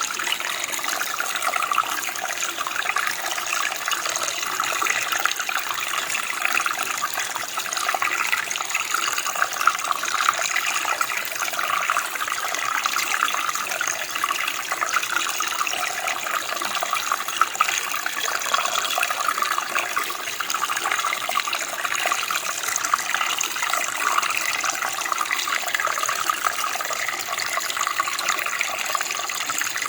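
Running water: a stream flowing steadily over stones, a constant splashing and babbling rush with most of its sound in the middle and upper range.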